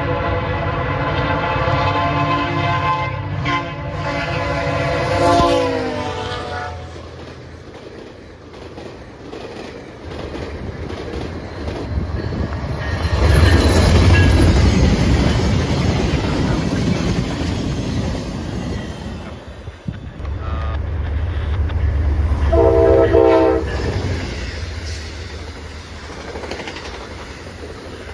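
Locomotive air horn sounding a long multi-note chord that drops in pitch as the train passes, followed by the rumble and wheel clatter of passenger trains going by, with a second short horn blast a little after the middle of that later passage.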